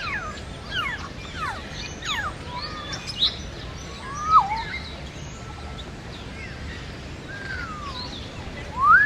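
Several birds calling at once, mostly quick chirps sweeping downward in pitch, with a few louder whistled calls that rise and fall, one about four seconds in and another near the end, over a steady background hiss.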